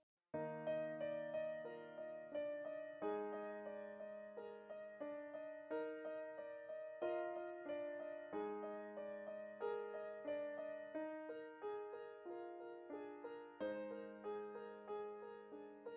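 Background piano music: a gentle run of single struck notes and chords, about two or three a second, each fading before the next. It starts just after the beginning, following a moment of near silence.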